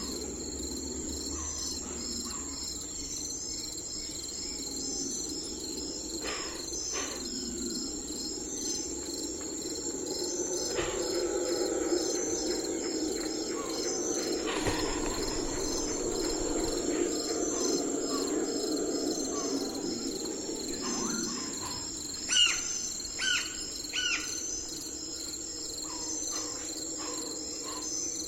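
Steady chorus of crickets trilling in a fast, even pulse, over a low continuous rushing. Scattered bird chirps, with three loud short downward-sweeping calls in quick succession about two-thirds of the way in.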